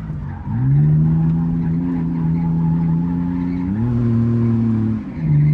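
Turbocharged BMW E30 drift car's engine held at high, steady revs on the throttle after picking up about half a second in; the revs step up a little around the middle, dip briefly near the end and climb again.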